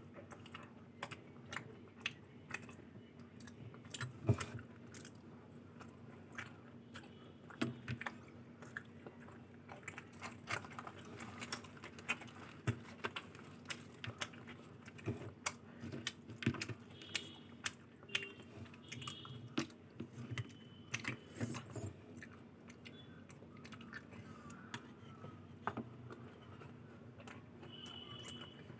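A person chewing and biting food close to the microphone, with many irregular wet mouth clicks and small crunches.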